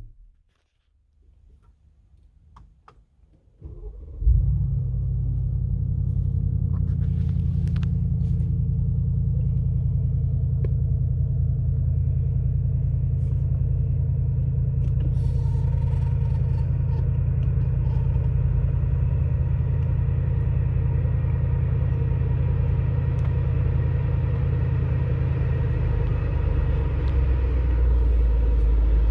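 Mercedes-Benz G63 AMG's twin-turbo V8 cold start: a few faint clicks, then about four seconds in the starter cranks and the engine catches with a loud burst, settling into a steady, deep fast idle. Near the end the idle note drops a little deeper and gets slightly louder.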